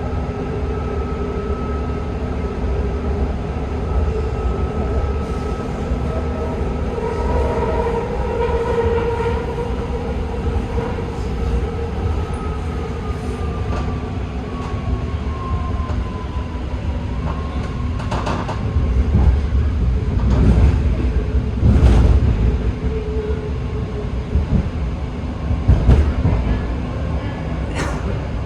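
BART train running on the track: a steady rumble with a motor whine that falls in pitch around the middle, then several loud knocks from the wheels and rails over the last ten seconds.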